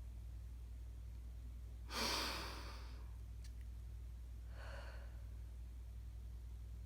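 A woman sighs audibly about two seconds in, then takes a softer breath a couple of seconds later, over a steady low hum.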